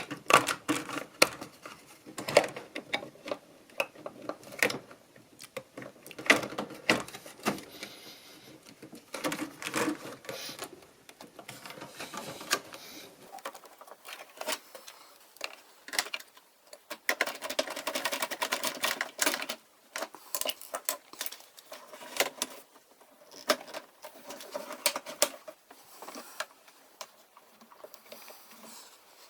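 Irregular clicks, knocks and clatter of tools and parts being handled during the reassembly of a front-loading washing machine, with a denser continuous rattle for a couple of seconds a little past the middle.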